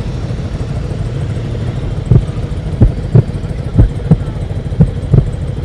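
A vehicle engine running with a steady low rumble. From about two seconds in, a string of loud, short thumps comes roughly twice a second.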